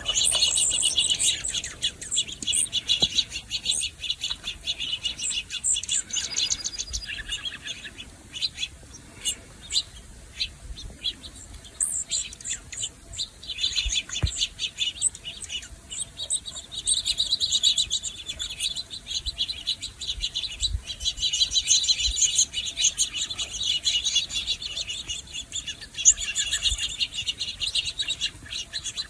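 A flock of juncos and sparrows chirping and twittering, many calls overlapping in a dense chorus that is busiest at the start and again in the second half.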